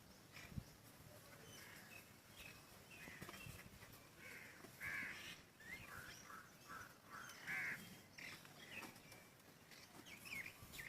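Faint bird calls: a string of short calls, most of them between about three and eight seconds in.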